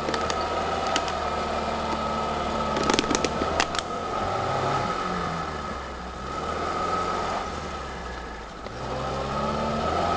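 Off-road vehicle's engine running, with a steady high whine alongside. A few sharp clicks and knocks come about three seconds in, then the engine revs up briefly. It eases off near the end and picks up again.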